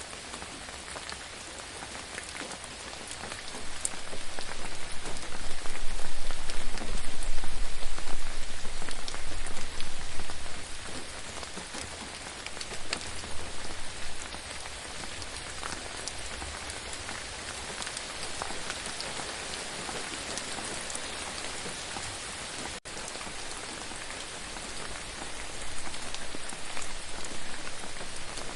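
Steady rain falling, with individual drops ticking through a constant hiss. A low rumble rises and falls between about four and ten seconds in, making that stretch louder.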